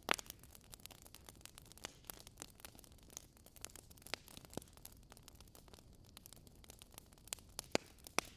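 Wood fire crackling in a fireplace: faint, irregular pops and snaps over a low hiss, with a sharper pop right at the start and a couple more near the end.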